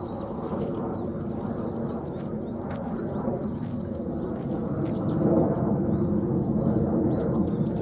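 Small birds chirping and calling in quick short notes over a steady low rumble that grows a little louder about halfway through.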